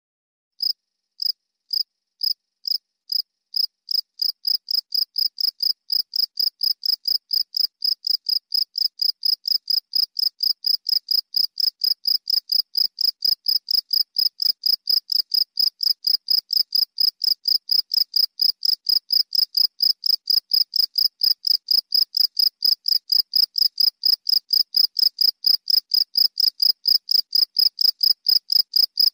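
A cricket chirping: a train of short, high-pitched chirps that starts sparse, quickens over the first few seconds to a steady rhythm of about four a second, and grows slightly louder.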